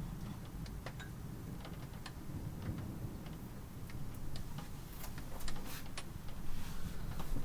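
Rain falling, heard as irregular drops tapping over a steady low rumble; the drops come more often and louder in the second half.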